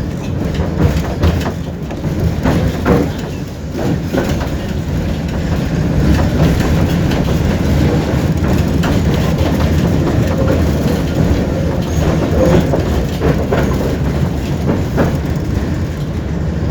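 Tram running along its rails, heard from inside the passenger car: a steady low rumble with scattered clatter and knocks from the wheels on the track.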